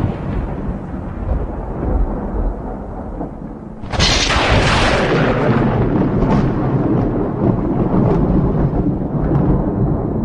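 Thunderstorm: an earlier peal of thunder rumbles away, then about four seconds in a sharp thunderclap cracks and rolls on into a long, low rumble.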